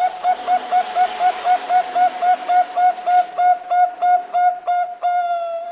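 Zebra dove (perkutut bangkok) cooing: a fast, even run of short notes, about four a second, ending in one longer held note.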